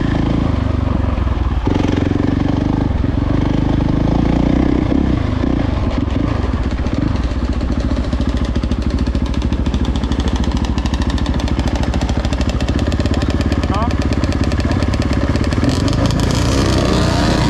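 Dirt bike engine running as the bike is ridden along a trail, steady with a rapid even pulse through the middle and some rising revs near the end.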